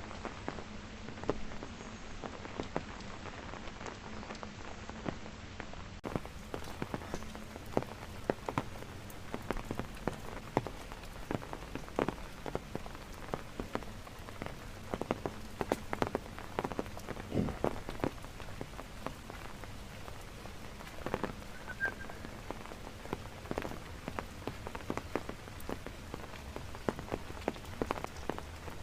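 Steady rain falling, with many irregular sharp ticks of individual drops striking close by.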